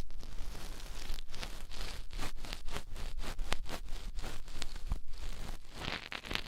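Ear-cleaning tool scratching and scraping inside an ear on a close microphone: a string of short, sharp scratches, a few a second.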